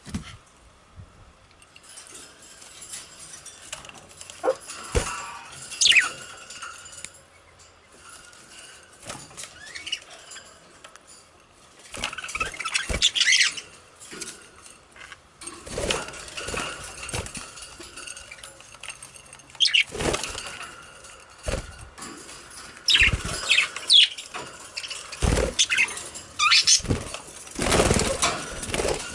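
Budgerigars chirping now and then in short pitch-gliding calls, with irregular bursts of wing fluttering and small knocks of the birds moving about.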